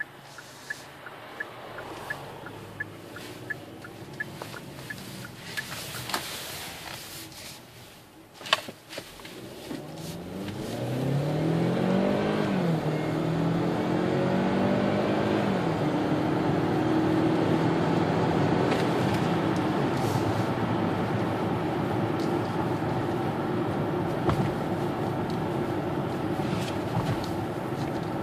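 Turn signal ticking steadily for the first few seconds, then a single sharp knock. From about ten seconds in, the 2013 Hyundai Santa Fe's turbocharged 2.0-litre four-cylinder accelerates hard, heard from inside the cabin: its pitch climbs, drops at two automatic upshifts, then holds steady at cruising speed.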